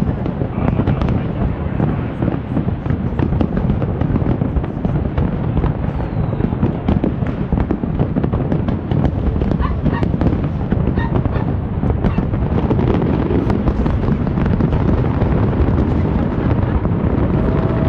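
A fireworks display going off nonstop: a dense, continuous barrage of bangs and crackles, many bursts overlapping with no pause.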